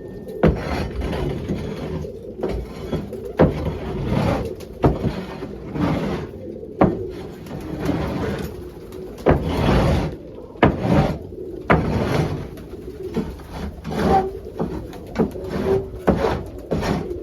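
Pigeons cooing in the coop, over repeated scraping strokes, roughly one a second, as a scraper is pushed across the coop floor to clear droppings.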